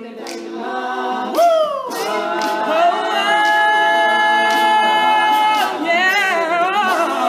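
Male a cappella vocal group singing an unaccompanied introduction in close harmony. A voice slides down about a second and a half in, the group then holds a long chord, and wavering vocal runs follow near the end.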